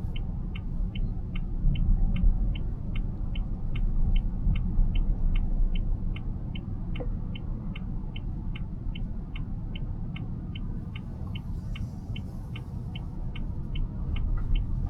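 Car's turn-signal indicator ticking steadily, about two and a half ticks a second, over the low road and cabin rumble of the moving car. The car is signalling for a right turn.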